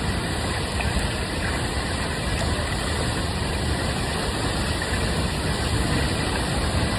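Large waterfall roaring steadily: an even, unbroken rush of falling water with a deep rumble underneath.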